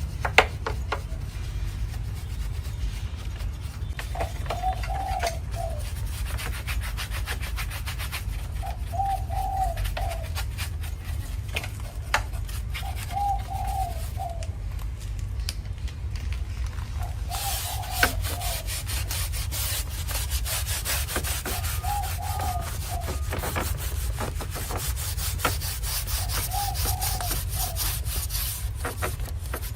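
Scraping and rubbing with scattered clicks from hand work, over a steady low rumble, turning harsher and hissier a little past halfway. A dove coos a short phrase about every four seconds, six times.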